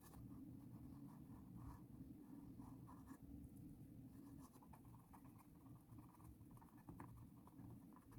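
Near silence, with faint, irregular scratchy strokes and light dabs of a paintbrush on canvas.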